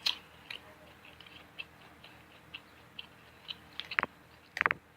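A person chewing food close to the microphone: a run of small wet mouth clicks and smacks, with a couple of short louder mouth sounds near the end.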